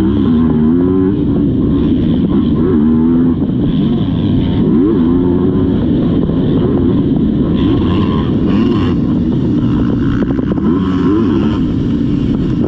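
Motocross dirt bike engine running hard, its pitch climbing and dropping again and again as it revs up and comes off the throttle.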